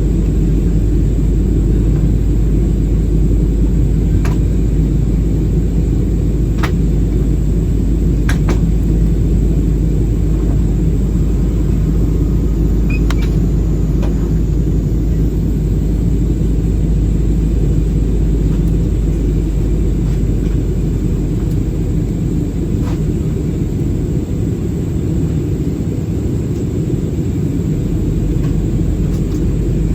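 Airbus A320 cabin noise in flight: a steady, loud low rumble of engines and airflow, with a few faint clicks from the cabin.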